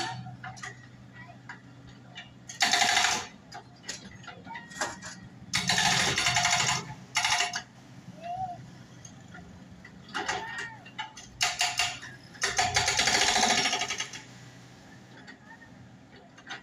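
Motorcycle idling through an aftermarket exhaust, blipped six times, the longest near the middle and near the end. Each rev gives a loud, rattling exhaust note over the steady idle, tuned to sound like a Yamaha RX-King.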